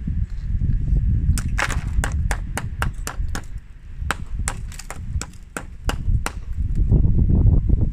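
A rapid, irregular series of sharp clicks and taps, several a second, over a constant low rumble.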